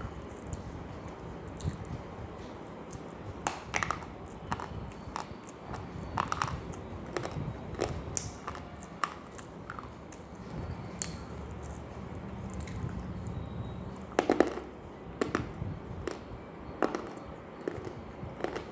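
A person biting and chewing something dry and crunchy: irregular sharp crunches, the loudest cluster about fourteen seconds in. A steady low hum runs underneath.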